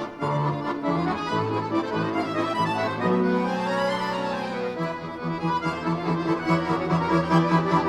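Orchestra of bayans (Russian button accordions) playing together: held chords, with a quick run that climbs and then comes back down in the upper parts midway, over repeated low bass notes in the second half.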